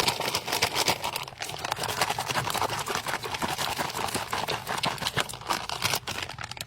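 Plastic MRE packaging crinkling and rustling in the hands: a dense, continuous run of crackles.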